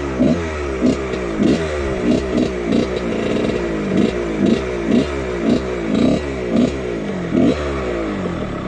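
1999 Husqvarna CR125 two-stroke dirt bike engine revving in quick bursts while being ridden, its pitch climbing and falling back about twice a second.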